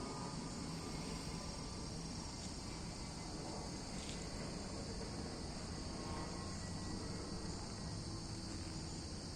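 A steady chorus of insects in woodland, one unbroken high-pitched trill, over a low rumble. A single short click sounds about four seconds in.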